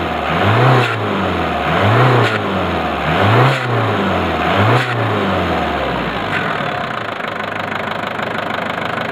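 Turbocharged car engine blipped by hand four times, about one every second and a half, each rise and fall in revs carrying a rush of air as the dump valve under test vents. The engine then drops back to a steady idle about halfway through.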